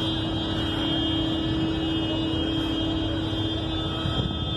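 A car rolling slowly over grass, its engine running at low speed: a steady drone with a constant hum underneath.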